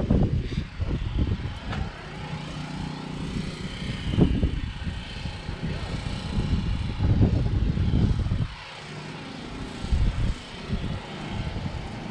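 Wind buffeting the microphone over a distant, steady engine drone.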